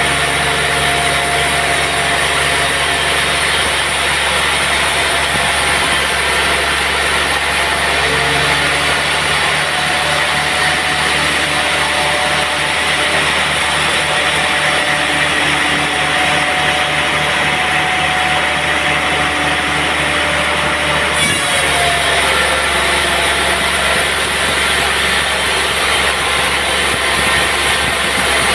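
Sawmill running steadily while it saws a teak log: a loud, constant machine noise with a steady hum. The sound changes abruptly about two-thirds of the way through.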